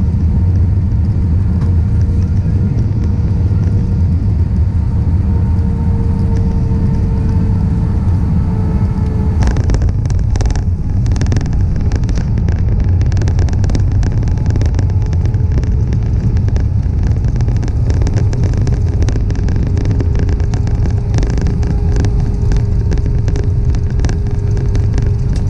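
Airbus A320-200 cabin during landing: a steady loud rumble of engines and airflow with a steady engine tone. About nine and a half seconds in, the sound changes suddenly and rattling and jolts set in, as the wheels touch down and roll on the runway.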